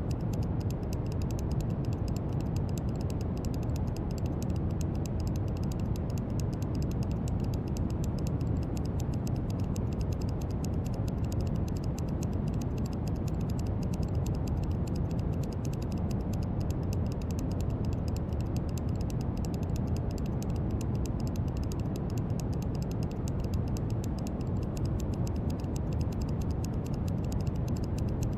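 Steady brown noise: an even, deep hiss strongest in the low end, with a faint fine crackle in the highs.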